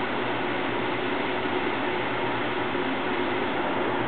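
Dishwasher running with a steady wash noise and a low hum, which drowns out the coffee maker's bubbling.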